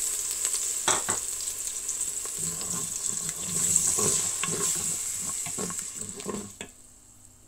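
Tomato paste and ginger-garlic paste sizzling in hot oil with fried onions in a nonstick pot, while a wooden spoon stirs and scrapes through them in a series of strokes. The sizzle falls quiet near the end.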